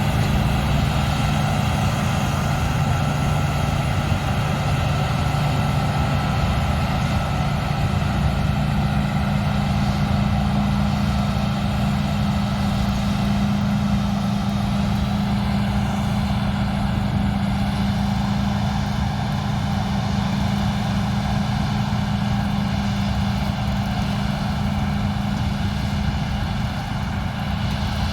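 Large diesel farm machine running steadily: a constant engine drone with a strong low hum, easing slightly near the end.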